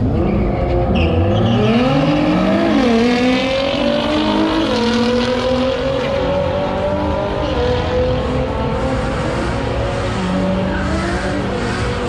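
Car engine revving hard as it accelerates: the pitch climbs steeply, drops back at a gear change about two and a half seconds in, then climbs again and stays high with small dips.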